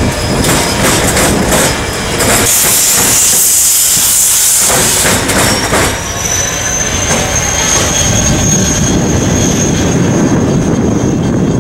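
Freight train's diesel locomotives rolling past at low speed, a steady rumble with wheels clacking over the rails. A high hiss comes in about two seconds in, and from about halfway a thin, high wheel squeal rises slightly and then holds.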